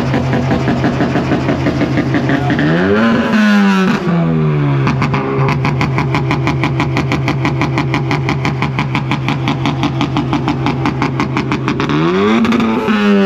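Car engine being revved hard while parked: a steady run, a quick rev up and back down about three seconds in, then a long hold at one pitch with a rapid, even pulsing, and another rev up near the end.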